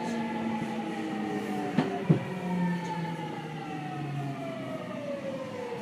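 Seibu 6000 series train's Hitachi GTO-VVVF inverter and traction motors whining under braking, several tones falling steadily in pitch as the train slows. Two sharp clacks sound about two seconds in.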